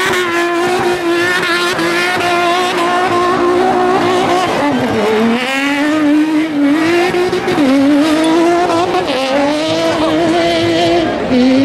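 Car engine held at high revs during doughnuts, with tyres squealing. Its pitch holds steady for the first few seconds, then drops sharply and climbs back several times.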